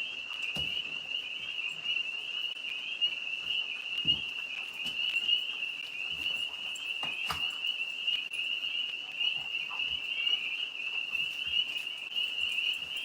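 A continuous chorus of tree frogs calling, a dense high-pitched trilling that never lets up. A few soft low thumps sound through it.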